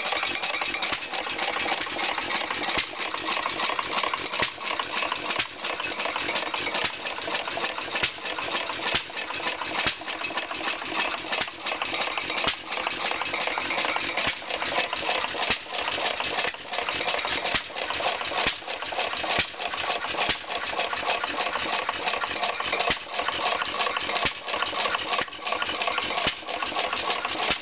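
1938 Stover model K 2 hp single-cylinder hit-and-miss engine running, with a continuous metallic clatter of rapid ticks and clicks.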